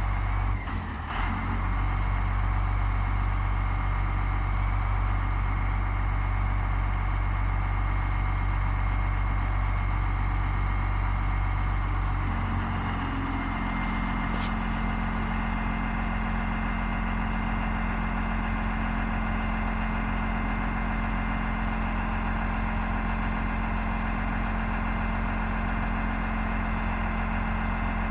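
Ford bucket truck's diesel engine idling steadily; about halfway through its note shifts and settles into a new steady hum.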